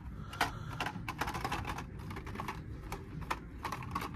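Irregular clicking and clacking of die-cast toy cars in plastic blister packs being handled and flipped through on store pegs, in quick clusters of clicks.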